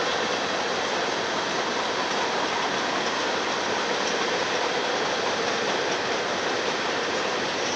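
Freight cars of a Union Pacific manifest train rolling past, a steady rushing rumble of steel wheels on rail.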